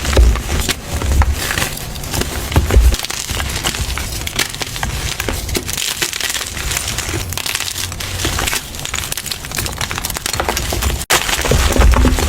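Blocks of gym chalk being crushed and crumbled by hand: dense, continuous crunching and crackling, with dull thuds in the first few seconds and a momentary break near the end.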